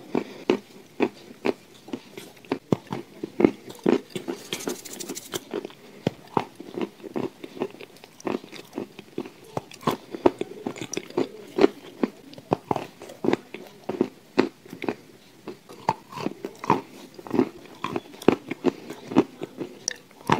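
A person biting and chewing a dry, crumbly slab spread with a grey paste: irregular crisp crunches, two or three a second, with softer chewing between them. A brief high hiss about five seconds in.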